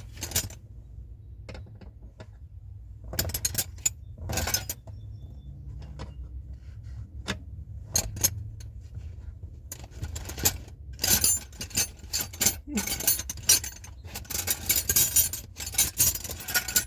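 Metal hand tools clinking and rattling, wrenches being handled and tried on a brake-line fitting. There are a few scattered clinks at first, and they become frequent and busy in the second half.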